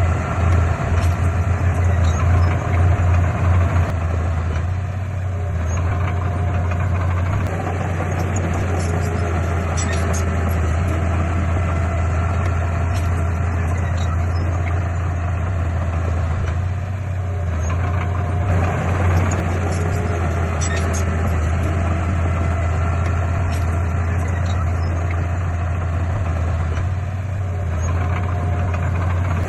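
Heavy diesel engine of earthmoving equipment running steadily with a strong low drone. It eases off briefly a few times.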